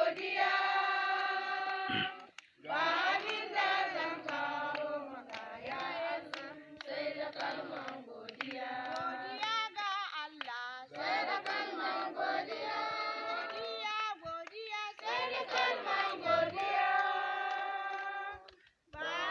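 A group of voices singing a praise song together, breaking off briefly about two seconds in and again near the end.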